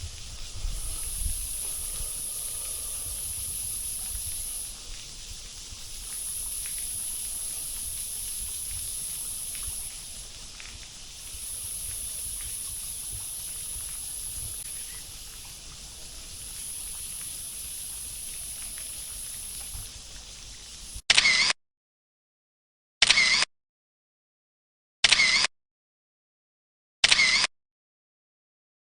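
High insect drone in waves, about four seconds on and a second off, repeating. Near the end it gives way to four camera-shutter clicks about two seconds apart, with dead silence between them.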